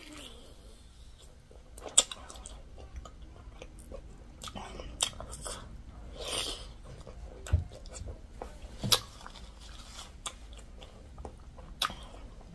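Biting into and chewing a sauced chicken drumstick, with several sharp clicks of mouth and meat spread through.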